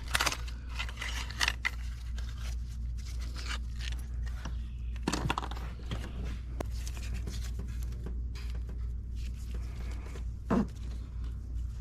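Hand tools and spark plugs being handled: light scraping and clicking, with a dull knock about five seconds in and another near the end, over a steady low hum.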